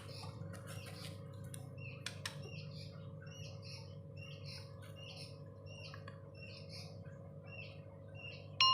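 White-rumped shama (murai batu) giving short, soft chirps, repeated evenly about twice a second.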